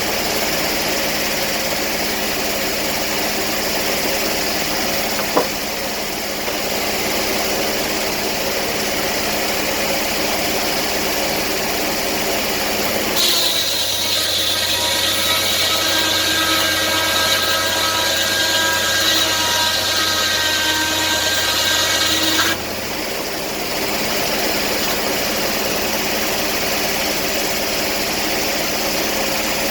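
Sawmill engine running steadily, with one sharp tick about five seconds in. For about ten seconds in the middle the sound changes to a higher whine with several steady tones, then drops back to the steady running.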